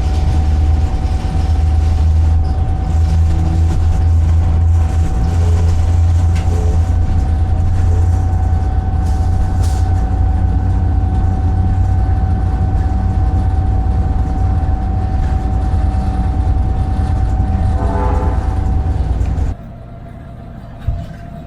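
Cab noise of a GP38-2 diesel locomotive under way: the EMD 16-cylinder two-stroke diesel drones steadily, with a steady whine over it. The sound drops abruptly near the end.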